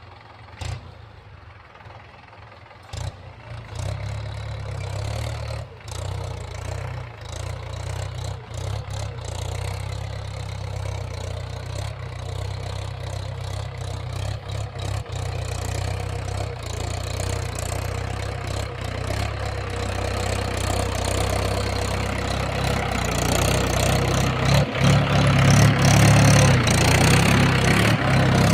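Tractor engine running steadily while ploughing. It is quieter for the first few seconds, then grows louder and is loudest near the end.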